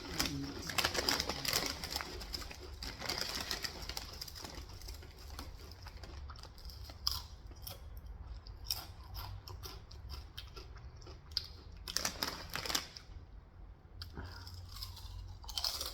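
A person chewing crunchy food close to the microphone, with irregular crackling crunches that come in clusters, heaviest near the start, about three quarters of the way through and near the end.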